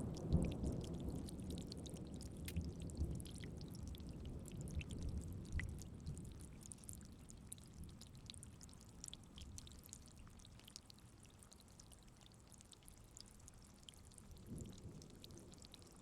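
Steady rain, with drops ticking, under a low thunder rumble that dies away over the first several seconds. The rain fades quieter toward the end.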